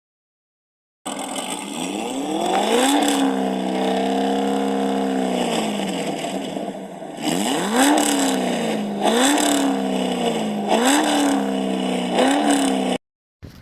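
A V8 engine, likely this truck's built 350 V8 with dual exhaust and Magnaflow mufflers, being revved. One rev is held high for about three seconds and falls back, then four quick blips follow. The sound stops abruptly near the end.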